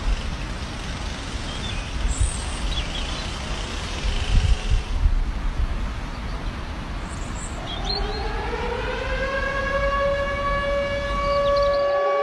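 Low rumbling noise with a few heavy thumps, then about two-thirds of the way in a civil-defense air-raid siren winds up, rising in pitch and settling into a steady wail.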